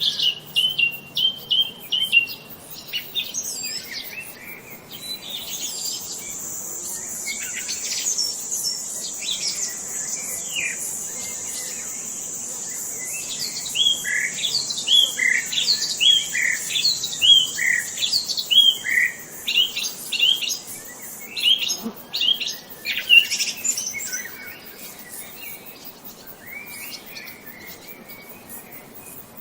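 Several songbirds chirping and calling in quick short notes, busiest in the second half. A steady high-pitched buzz runs beneath the birds through the middle and then stops.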